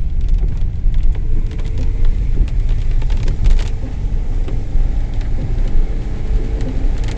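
An old Mercedes car driving on a wet road, heard from inside the cabin: a heavy low rumble, with scattered light ticks.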